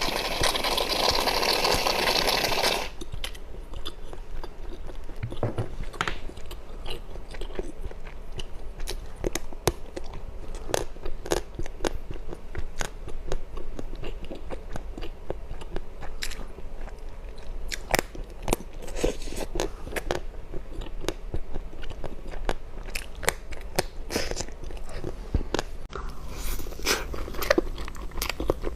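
A person biting and chewing crunchy food. A dense crackling crunch fills the first three seconds, then sharp, scattered crunches follow as it is chewed.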